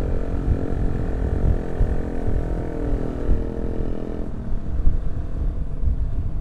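Motorcycle engine running at a steady pitch while riding, most likely one of the group's Yamaha R15 V3s with its single-cylinder engine, over wind buffeting on the microphone. The engine note fades about four seconds in, leaving mostly wind rumble.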